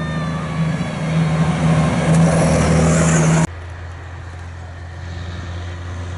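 Rally truck's diesel engine running loudly, building for a few seconds, then cutting off sharply about halfway in to a quieter, steady engine drone.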